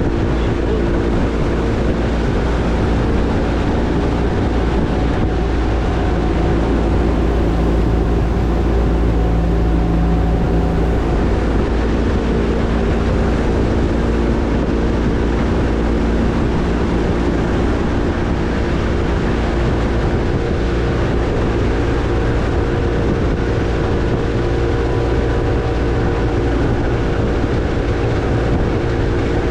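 A boat's motor running steadily at a constant speed, with a steady engine drone, a deep rumble and a rushing noise underneath.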